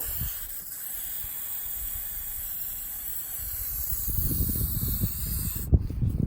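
Aerosol can of paint remover spraying in one long steady hiss that starts suddenly and stops shortly before the end. A low rumble comes in about halfway.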